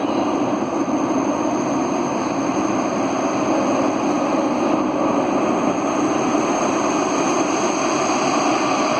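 Steady rumble and hum of an electric tram, with a thin high whine above it, growing slowly louder.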